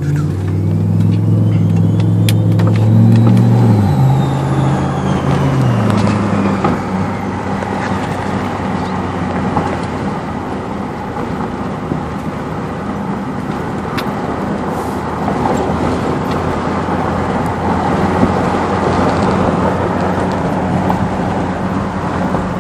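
Turbocharged 2009 Jeep Grand Cherokee SRT8 with a Garrett GTXR42 turbo, heard from inside the cabin. The engine note rises under load for about three and a half seconds with a rising turbo whistle, then drops away in two steps and settles into steady driving and road noise.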